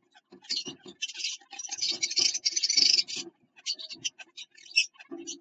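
A finch scratching and rustling nesting material inside a wooden nest box, with quick taps and clicks against the box; a dense stretch of rustling from about one to three seconds in, then scattered ticks.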